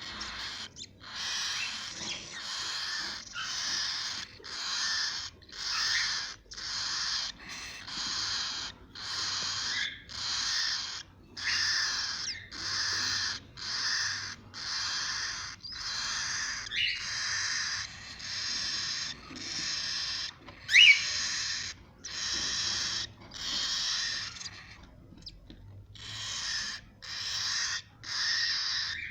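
Cockatiel chicks giving raspy, hiss-like calls in a steady rhythm, about one a second. A short rising chirp a little after twenty seconds in is the loudest sound.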